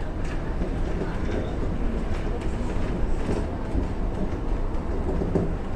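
Electric commuter train running on its rails, a steady low rumble with running noise throughout.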